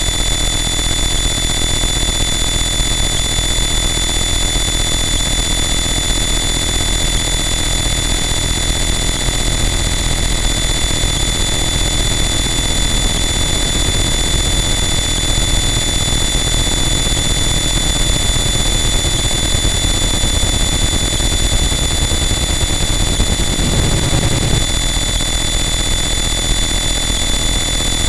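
Harsh noise wall music: a dense, unchanging wall of distorted noise with steady high whistling tones riding on top, and a brief low swell near the end.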